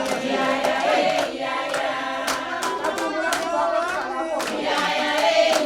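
A group of people singing together in several voices, with hand claps coming in from about two seconds in.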